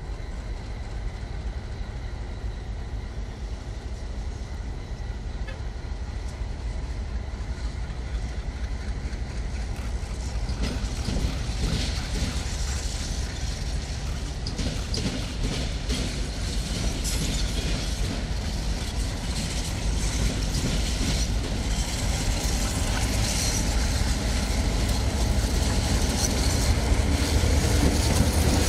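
Diesel-hauled train approaching and passing, its deep engine rumble growing steadily louder. From about ten seconds in, a rising rush of wheel noise with rapid clicks of wheels over rail joints.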